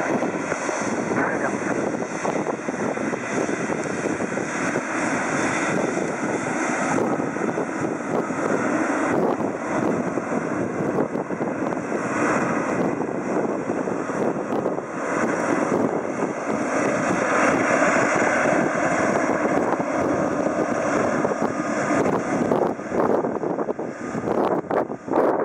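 Jet engine noise from a Boeing 777-300 airliner landing, a loud, steady rush.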